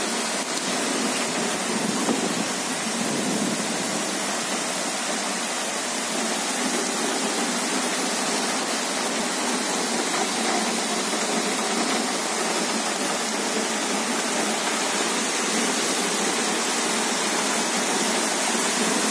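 Heavy downpour: a steady, even hiss of rain pouring onto wet pavement.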